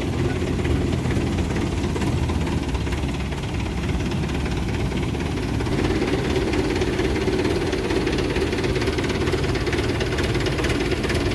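Tractor engine running steadily, driving a tractor-mounted HTP sprayer pump.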